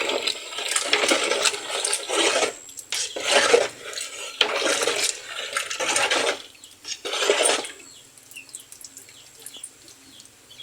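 A spoon stirring cooked corn kernels and coconut milk in a metal pot, scraping and clattering against the pot in about five strokes of roughly a second each. The stirring dies down about eight seconds in.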